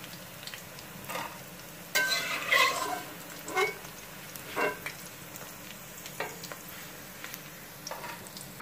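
Okra frying in hot oil in a metal kadhai with a steady sizzle, while a metal slotted spoon scrapes and clinks against the pan several times as the fried okra is scooped out.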